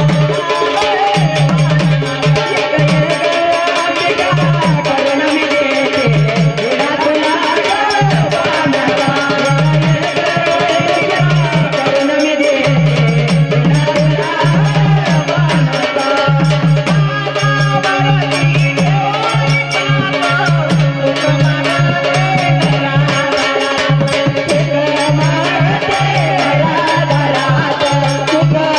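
Marathi waghya folk devotional music: sambal drums keep a steady driving beat under a wavering sung and organ melody, with jingling rattle-like percussion.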